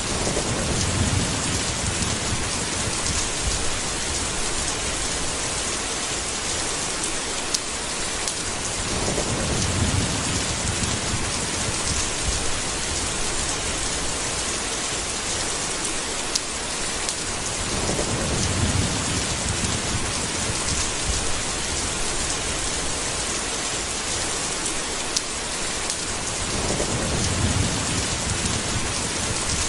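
Steady rain hissing, with low rolls of thunder rumbling up four times, about every nine seconds, and a few faint drip ticks.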